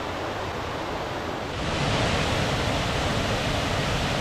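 Waterfall swollen by heavy rain, rushing steadily. It grows louder about a second and a half in.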